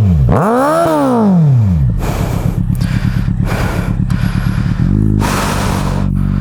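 Motorcycle engine revved once, its pitch rising and then falling over about a second and a half, then settling into a steady idle with rough noise over it and a small blip about five seconds in.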